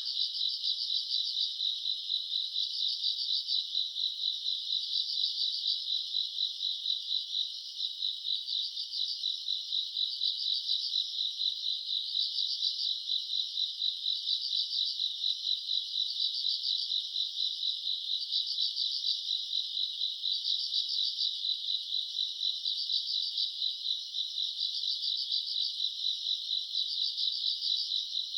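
Night chorus of grass insects such as crickets: a continuous high, fast-pulsing trill, with a second call swelling in short phrases about every two seconds.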